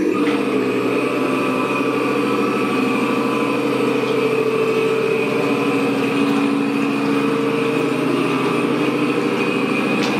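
Motor of a Samson RC model tugboat running steadily, a constant hum with a high whine over it.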